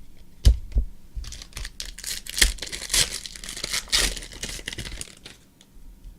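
A trading-card pack wrapper being torn open and crinkled by hand, a dense crackling that runs for about four seconds and fades out, after a couple of sharp knocks in the first second.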